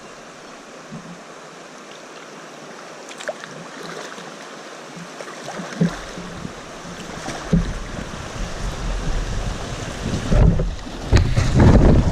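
Rushing river water around a tandem kayak, fairly quiet at first, then growing louder about halfway through as the kayak runs into rapids, with splashes and heavy low rumbling of wind on the microphone near the end.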